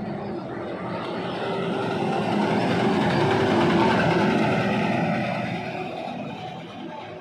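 A heavy truck driving past on a highway, its engine and tyre noise growing louder to a peak midway and then fading as it goes by.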